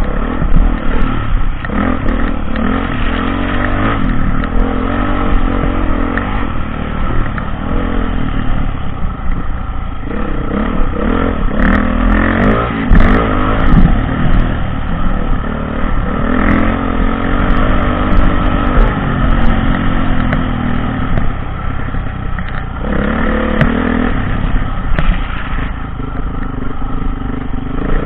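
Dirt bike engine revving up and down through the gears while riding off-road, with scattered clatter and knocks in the middle stretch.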